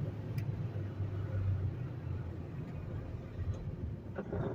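Semi truck's diesel engine running with a steady low hum as the rig gets under way, with a brief knock or click near the end.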